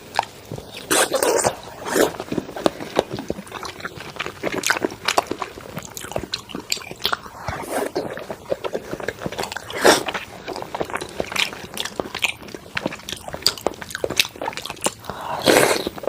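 Close-miked eating of thick-cut salmon: biting and chewing with wet mouth clicks and lip smacks, irregular and continuous.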